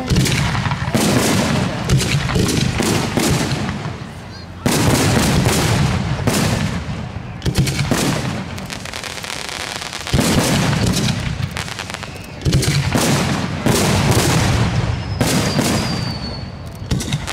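Aerial fireworks shells bursting one after another in about ten sudden loud booms, each trailing off into crackle. A thin high whistle sounds about fifteen seconds in.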